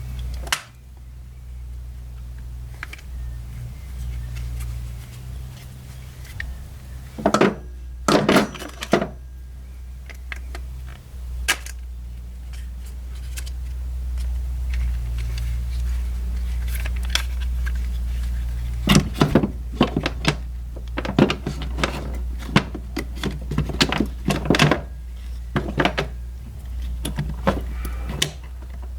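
Small plastic parts of a cordless drill being handled and fitted by hand: scattered clicks and knocks, in a short cluster early on and a denser run in the second half, over a steady low hum.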